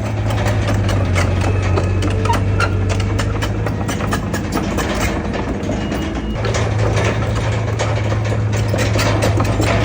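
Heavy diesel engine of earthmoving machinery running steadily with a deep hum, over frequent metallic clanks and rattles.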